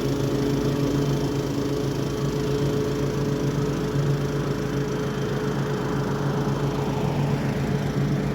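Toro HDX 30-inch self-propelled walk-behind mower running at a steady engine speed while mowing grass.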